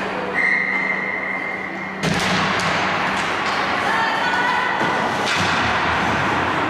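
Ice hockey game noise in a rink: thuds and knocks of puck, sticks and players on the ice and boards. A steady high tone lasts about a second and a half near the start, and a sudden louder burst of play noise follows about two seconds in.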